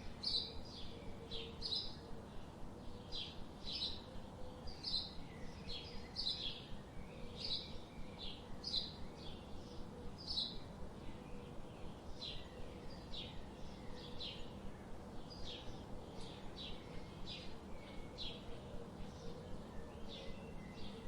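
Forest birds chirping: short, high chirps repeated about twice a second without let-up, over a low, steady background hiss.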